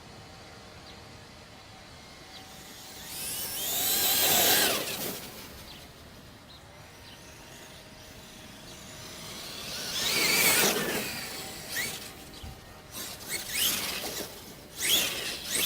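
Traxxas E-Revo brushless RC truck passing at speed twice, its electric motor and drivetrain whine swelling and sliding in pitch as it goes by, followed by several short, sharp bursts of throttle near the end.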